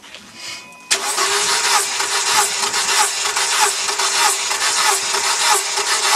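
Mercedes W210 engine turned over on the starter motor for a compression test, starting suddenly about a second in. The starter whines steadily and the engine pulses evenly, about four beats a second, as it cranks without firing, throttle held wide open and a compression gauge fitted in the first cylinder.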